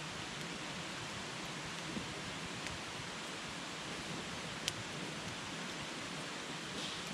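Wood campfire burning: a steady hiss with a few sharp crackles, the loudest a little past halfway.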